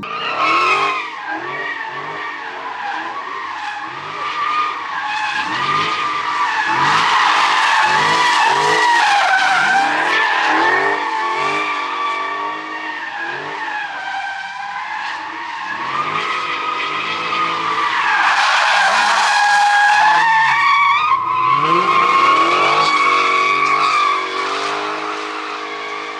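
A car drifting: its tyres squeal continuously, with the pitch of the squeal wavering and swelling louder twice, while the engine revs up again and again underneath.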